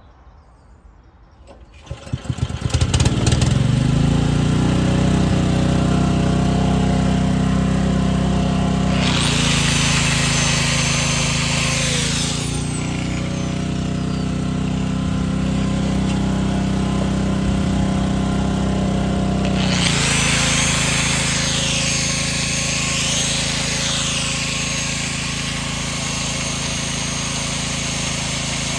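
A motor starts about two seconds in and settles into a steady run. Twice a loud hiss joins it for several seconds, and the motor's pitch shifts each time the hiss starts.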